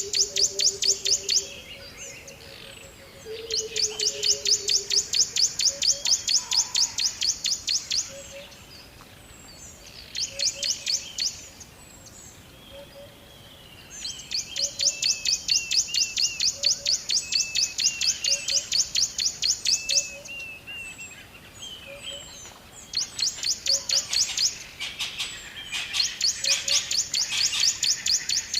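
Birds chirping: long, fast trills of high chirps, about eight a second, coming in bursts of several seconds with short pauses, and softer single calls in the gaps.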